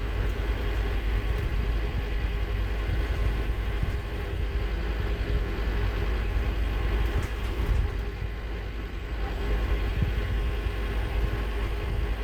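Scania K230UB Omnilink single-deck bus under way, its rear-mounted five-cylinder diesel running steadily with a deep drone and road rumble, heard from on board.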